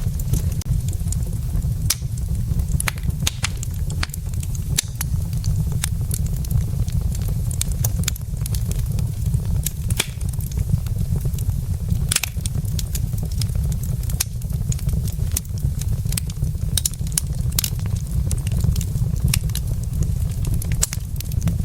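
Wood logs burning in a fireplace, crackling and popping at irregular intervals, several snaps a second, over a steady low rumble.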